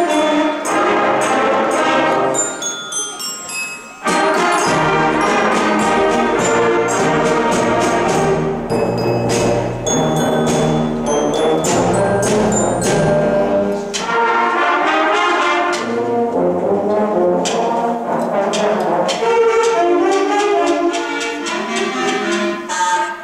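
Sixth-grade concert band playing a brass-led Christmas novelty arrangement, full band with trombones and trumpets. The music thins briefly about four seconds in, then comes back fuller with low bass notes, and breaks off at the very end.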